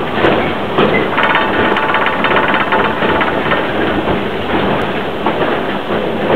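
Two-foot narrow-gauge train hauled by a Forney steam locomotive running on the track, with continuous clattering and rattling from the moving cars. About a second in, a high steady tone sounds over it for about two seconds.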